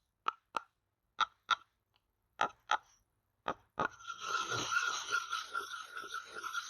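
Close-miked ASMR taps: four pairs of sharp taps about a second apart, then a steady scratching rustle from about four seconds in.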